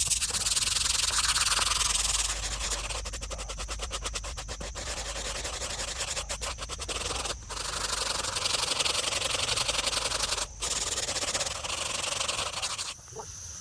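A brush scrubbing a mold-covered gravestone in fast back-and-forth strokes, with two brief pauses and stopping shortly before the end.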